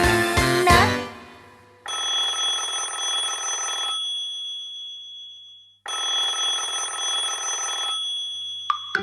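Telephone bell ringing twice, each ring about two seconds long with a gap of about two seconds between. Children's music fades out in the first second.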